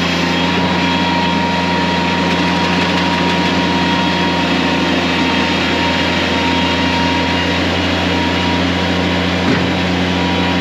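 Engine of a construction machine running at a steady speed during a second attempt to load it onto a trailer, with one brief knock about nine and a half seconds in.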